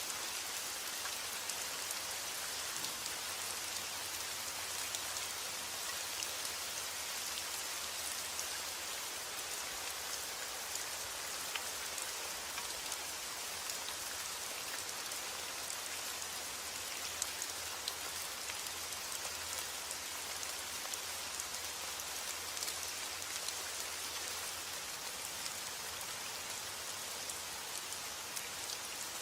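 Steady rain falling: an even hiss of rain with scattered individual drop ticks.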